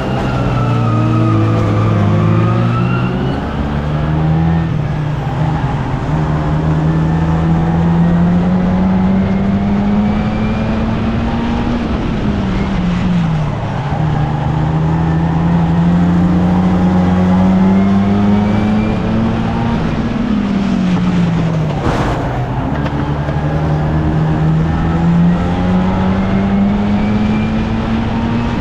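A 1300cc stock car's engine racing at full throttle. Its pitch climbs for several seconds along each straight and drops sharply three times as it lifts for the bends. There is one sharp knock about two-thirds of the way through.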